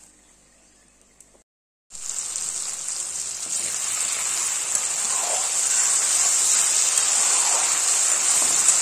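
Tomato, ginger, garlic and green chilli masala paste sizzling steadily in hot mustard oil in a kadai. It starts abruptly about two seconds in and grows slightly louder. The masala is far along in its frying and the oil has separated from it.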